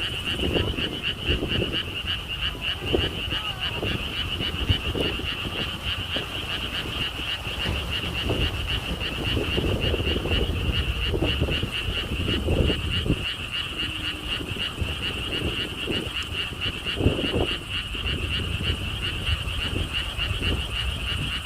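A chorus of frogs calling without a break, a fast pulsing high trill, with lower croaks scattered through it. Wind rumbles on the microphone.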